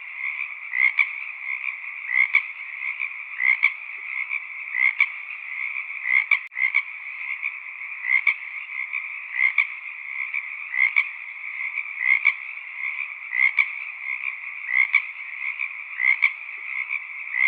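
Frogs calling in chorus: a steady dense trilling background with one louder call repeating about every 1.3 seconds.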